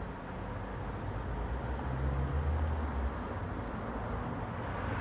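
Steady low outdoor rumble of background noise, like distant road traffic, with a few faint high clicks about two seconds in.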